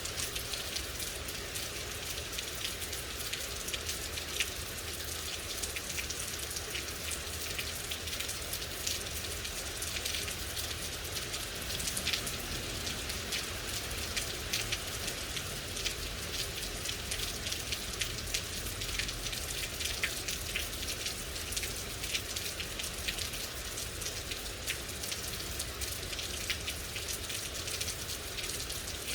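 Steady rain falling, with many sharp individual drops pattering on a surface over a constant hiss and a low rumble.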